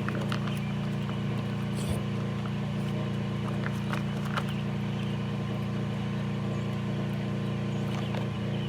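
A steady low mechanical hum at an even level, with a few faint clicks and taps over it.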